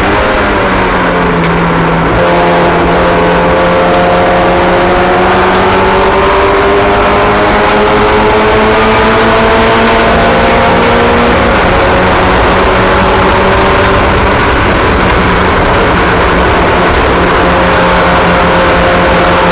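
Several small race car engines running together on track, a mix of steady engine tones whose pitches slowly rise and drift against one another.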